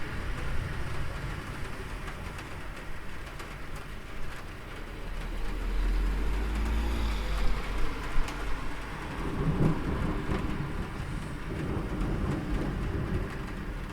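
Rain falling steadily, with a low rumble of thunder swelling about five seconds in and dying away by about nine seconds.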